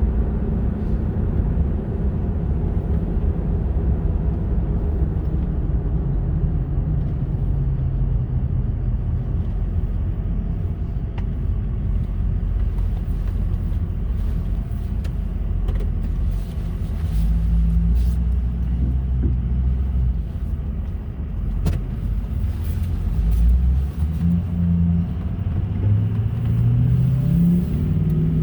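Ford 6.0 L Power Stroke V8 diesel engine running steadily, its pitch rising in the last few seconds as it is revved up a little. The engine is logging a random misfire and a cylinder 2 misfire (codes P0300 and P0302).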